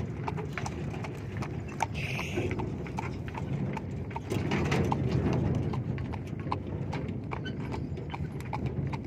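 Hooves of a walking animal clip-clopping steadily on hard ground, a quick even run of hoof strikes over a low rumble.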